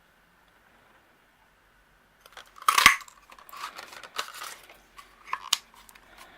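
Label paper punch clunking once as it punches a piece of card, about three seconds in, followed by the rustle of the card being handled and a few light clicks.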